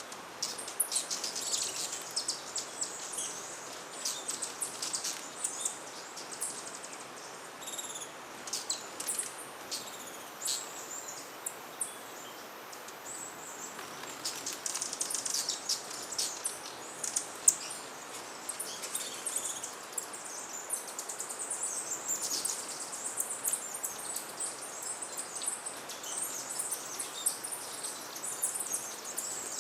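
Hummingbirds calling at busy feeders: a constant scatter of short, high, sharp chips and squeaky twitters over a steady background hiss, busier in the second half.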